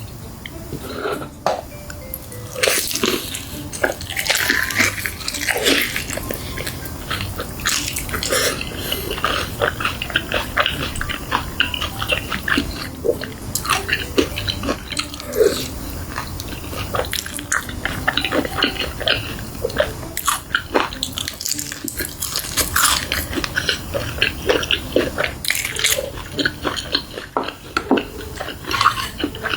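Fried chicken being bitten and chewed: a steady run of crisp crunches and crackles with wet mouth sounds.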